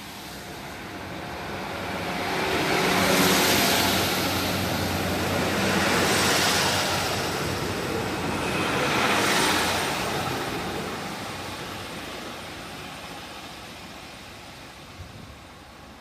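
Class 156 diesel multiple unit pulling away, its underfloor diesel engines running under power with wheel and rail noise. It builds over the first few seconds, swells again twice as the carriages pass, then fades steadily as the train draws away.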